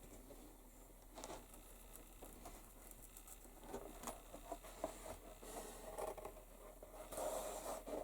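Faint scraping, rustling and small knocks of leather being handled and worked at a bench, in short irregular strokes that grow busier and a little louder over the last few seconds.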